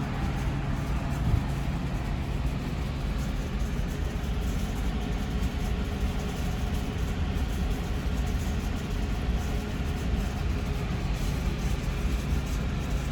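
2010 Aprilia RSV4 Factory's V4 engine idling steadily through a Racefit slip-on exhaust.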